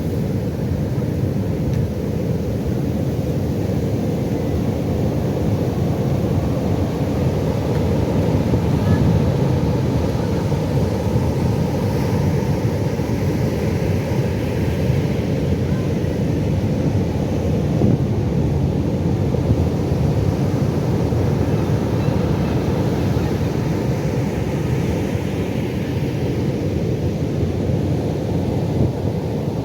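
Pacific Ocean surf: a steady low rumble of waves, with a few soft swells of hissing wash, mixed with wind on the microphone.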